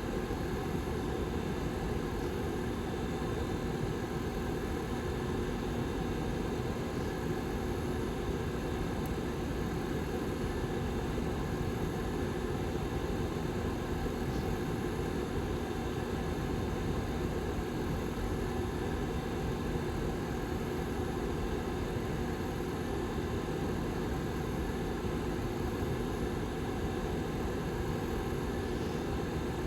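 Rear fan of a Lasko Model 755320 tower heater running steadily: an even rush of air with a low, constant hum.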